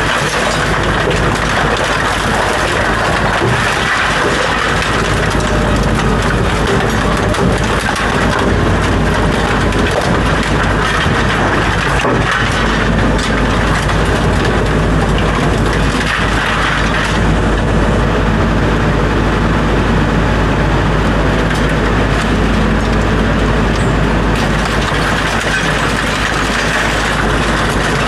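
A heavy diesel machine running steadily, with scrap metal crunching and clattering throughout.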